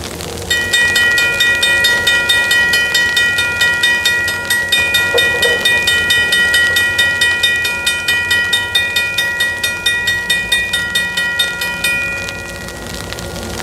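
Railroad grade-crossing warning bell ringing rapidly, about three to four strikes a second. It starts suddenly and fades out near the end, over the steady low drone of the train.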